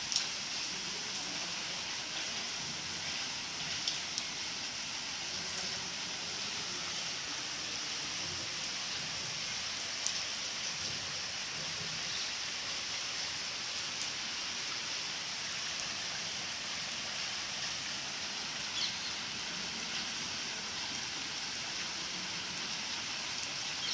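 Heavy rain pouring steadily, an even hiss, with a few louder single drops or taps standing out now and then.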